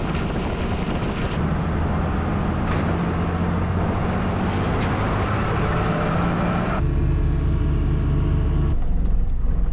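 Motorboat engine running steadily under way, with water and wind noise; the sound changes abruptly about seven seconds in and again near nine seconds.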